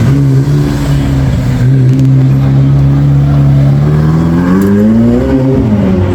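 A car engine running at a steady pitch, then revving up about four seconds in and dropping back near the end.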